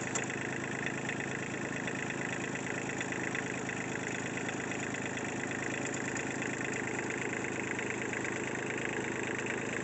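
Kubota B1750 compact tractor's three-cylinder diesel engine running steadily at a constant speed.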